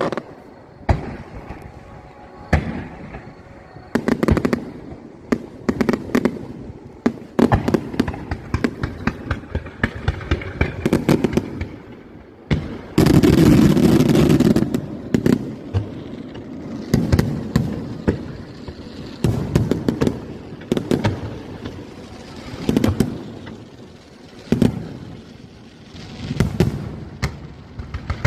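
Aerial fireworks bursting again and again: low booms and sharp crackling reports, with a loud, dense barrage about halfway through.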